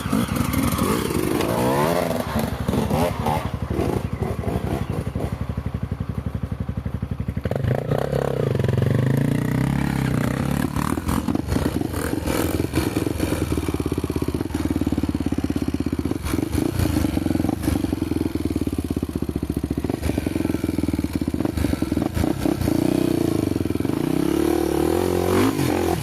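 Honda motorcycle engine running on a dirt trail, its pitch rising and falling as the throttle is worked, getting louder about seven seconds in, with frequent clattering knocks over it.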